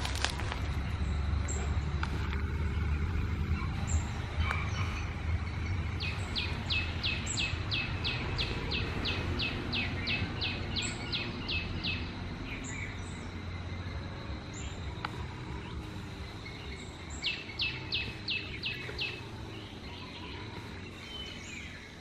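A bird singing a long series of quick, evenly repeated down-slurred notes, about three a second for some six seconds, then a shorter run of the same notes later on, with scattered short high calls from other birds. A low rumble underlies it, strongest in the first half.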